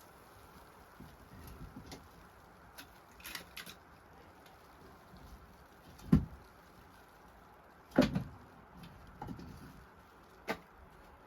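A few scattered knocks and thumps, the loudest two about six and eight seconds in, over a faint steady hiss.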